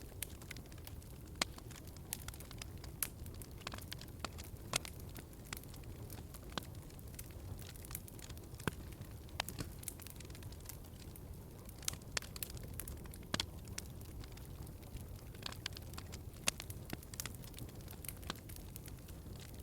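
Wood fire burning in a fireplace: a low steady rumble of flames with irregular crackles and occasional sharper pops of the burning logs.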